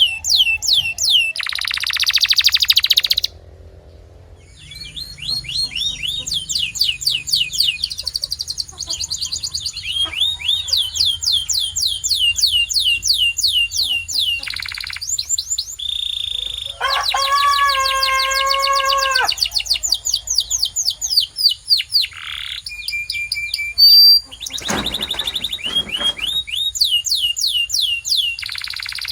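Domestic canary singing a long song of fast trills, each a rapid run of repeated down-sliding notes, with a buzzy rattle near the start and a brief pause about four seconds in. Around the middle comes a lower, fuller rolling phrase.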